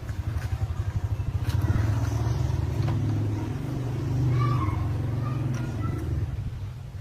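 Engine of a repaired machine running with a rapid, even firing pulse, growing a little louder about two seconds in and easing off near the end.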